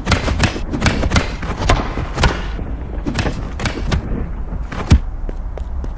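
A quick run of fight blows, punches and kicks landing as sharp thuds, about a dozen of them, thickest in the first half, with the heaviest hit about five seconds in.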